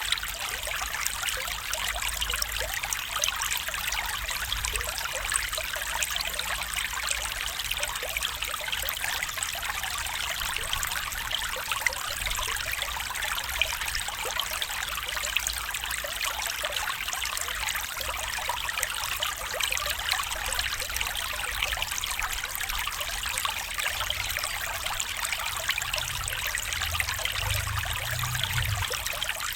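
A stream flowing with a steady trickling rush of water. A brief low rumble comes in near the end.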